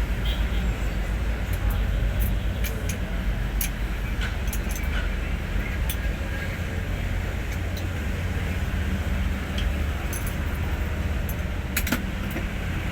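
Hino 500 truck's diesel engine running: a steady, heavy low rumble, with scattered sharp clicks and rattles over it.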